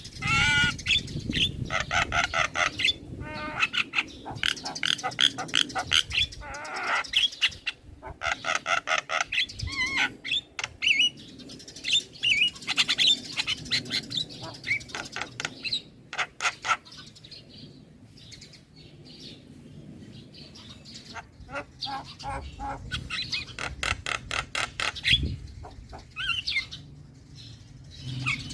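Young male Javan myna (jalak kebo) singing and chattering in fast runs of rapidly repeated harsh notes, with a lull of a few seconds midway before it starts again.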